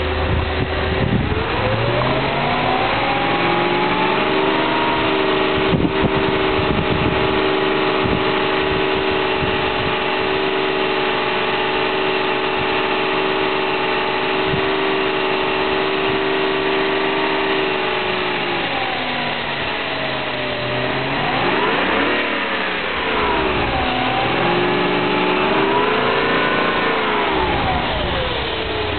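BMW M60B40 4.0-litre V8 engine during a Seafoam engine-cleaner treatment. It revs up from idle about a second in and holds steady at raised revs for some fifteen seconds, then drops back, is blipped twice in quick succession, and returns to idle near the end.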